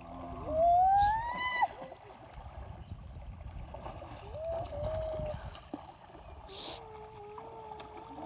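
A person's voice calling out in long drawn-out pitched notes, with no words. There is a loud rising whoop about half a second in, then a shorter held note, then a longer steady held note near the end, over a low rumble of wind and water noise.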